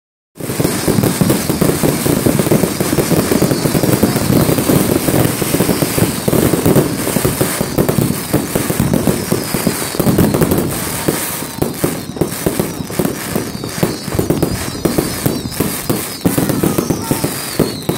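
Firework display: a dense, continuous barrage of bangs and crackling bursts, with a few faint high whistles in the second half.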